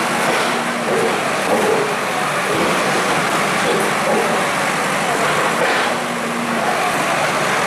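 A motor vehicle engine running steadily under a loud, even din, with faint voices in the background.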